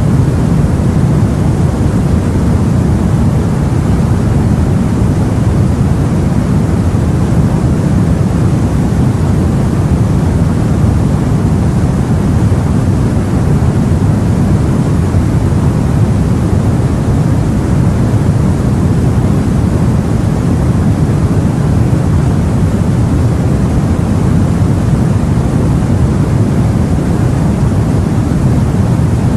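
Steady, dense low rumbling noise of open sea and wind heard aboard a boat, unchanging, with no separate wave breaks.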